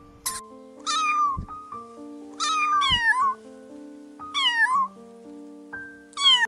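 A cat meowing four times, each meow falling in pitch, over background music.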